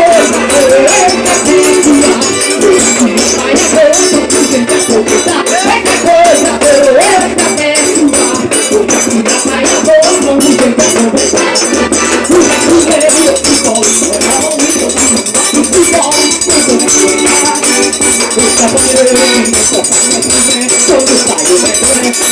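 Forró trio playing an instrumental passage: a wandering melody line over fast, even percussion ticking.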